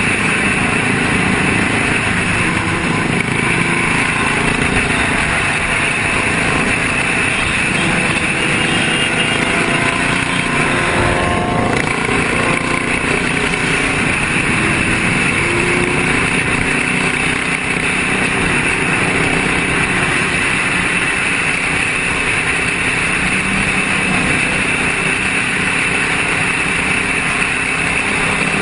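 Motorcycle engines running steadily, with one engine revving up, its pitch rising, a little after ten seconds in.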